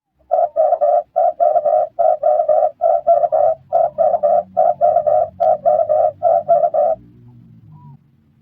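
Red turtle dove cooing: a fast, even string of short notes in quick groups of two or three, which stops about seven seconds in.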